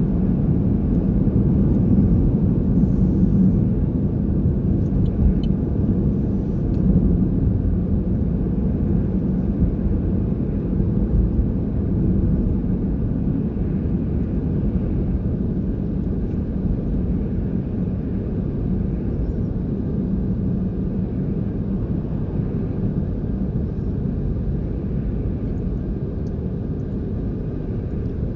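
Steady low rumble of road vehicles, with no distinct events. It eases off slightly toward the end.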